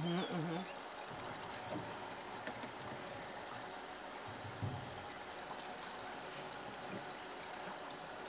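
Tap water running steadily into a sink basin, filling it to test the newly plumbed outdoor-kitchen sink.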